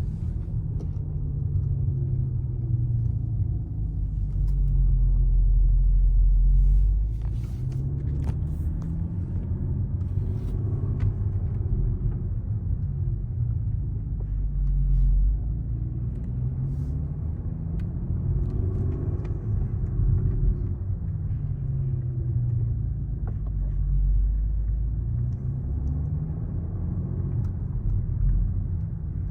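Porsche Panamera 971 making a grinding noise from the steering: a low rumbling grind that swells and fades over and over, about every four seconds, as the steering is worked.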